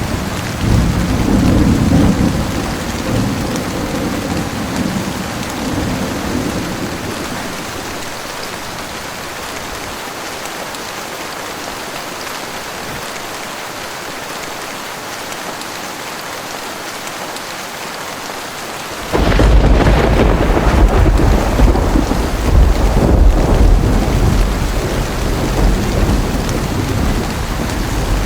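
Heavy rain falling steadily in a thunderstorm. A low thunder rumble fades out over the first several seconds, then about two-thirds of the way in a loud thunderclap breaks in suddenly and rolls on to the end.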